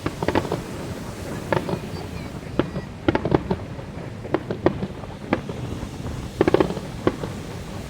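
Fireworks shells bursting: a string of sharp bangs at irregular intervals, several coming in quick clusters, over a steady low rumble.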